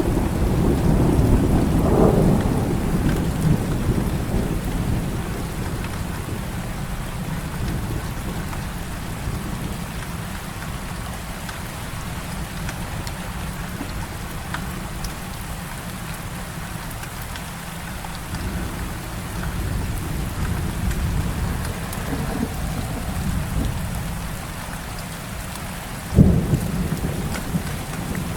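Heavy rain falling steadily, with deep rolling thunder that fades over the first few seconds. Near the end a sudden, louder thunderclap breaks in.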